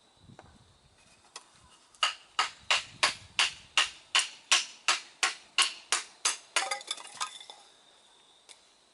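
Rapid run of sharp, evenly spaced strikes, about three a second, each with a ringing edge, ending near the two-thirds mark in a quick flurry of lighter clicks.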